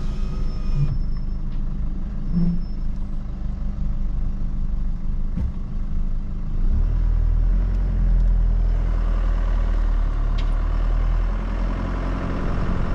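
Tow vehicle's engine and drivetrain rumbling inside the cabin as it pulls a caravan through a gully, the rumble growing much louder about seven seconds in as it pulls harder.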